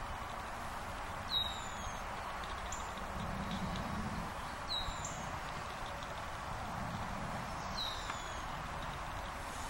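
A bird repeating a short, high chirp that slides downward, about every three seconds, over a steady background hiss.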